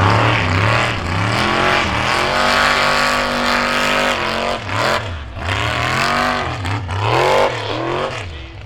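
Truck engine revving hard and repeatedly, its pitch rising and falling, held at high revs for about two seconds in the middle before it drops away near the end.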